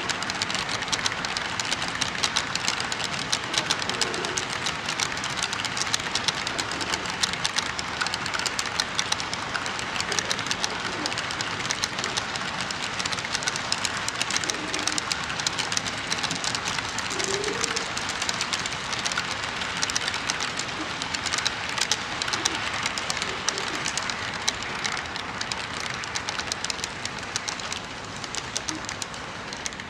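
HO-scale model train running on the layout, a steady dense clicking of wheels over the rail joints with a constant hiss.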